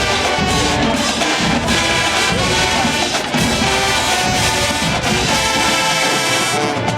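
HBCU marching band playing loud, with brass (trumpets and trombones) over a drumline beat.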